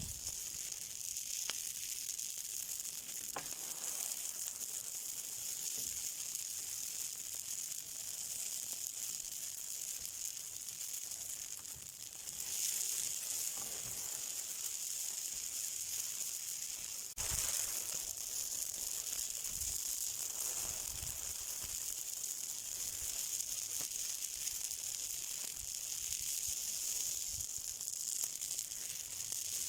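Fire burning with a steady high-pitched hiss and a few faint crackles; the hiss swells briefly about twelve seconds in, and a sharp click comes about seventeen seconds in.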